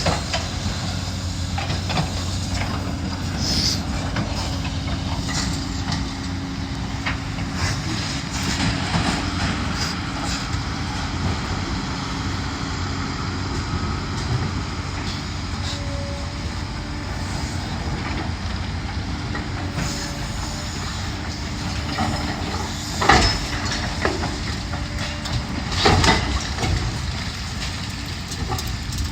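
A demolition machine's diesel engine runs steadily while it tears at the building, with knocks and scraping of debris. Two loud crashes come about 23 and 26 seconds in.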